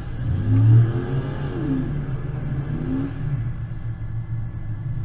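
Off-road vehicle engine running with a steady low drone, its pitch rising and falling twice as it revs up and eases off.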